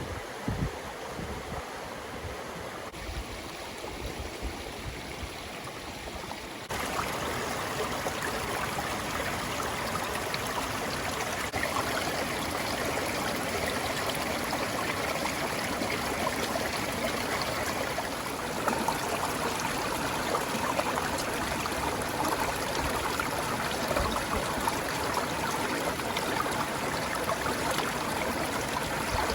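Woodland stream running steadily, a continuous rush of water that gets louder about seven seconds in.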